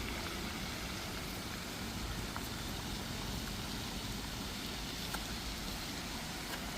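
Steady rain noise mixed with the rumble of car traffic, with a few faint ticks of drops.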